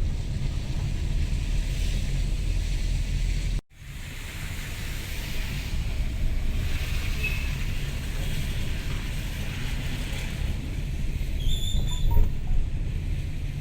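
Traffic and road noise with wind buffeting the microphone, a steady low rumble with hiss above it, cut off abruptly for a moment about four seconds in. Near the end come a few short, high chirps.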